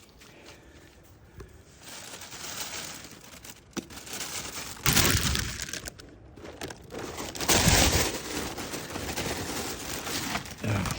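Plastic bag crinkling and rustling as it is handled, in irregular bursts that are loudest about five and about eight seconds in.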